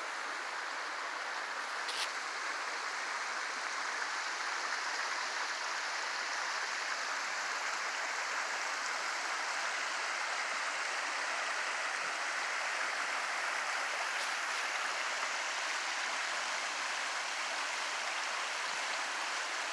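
Steady rush of a mountain stream flowing over rocks, an even hiss with no change in level. A faint click about two seconds in.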